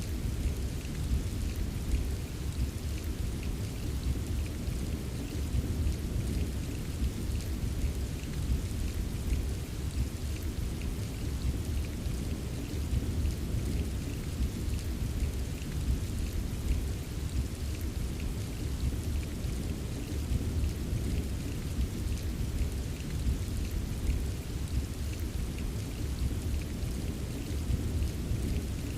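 Steady rain with fine, scattered drop ticks over a continuous low rumble of distant thunder. The mix stays even throughout, with no single thunderclap standing out.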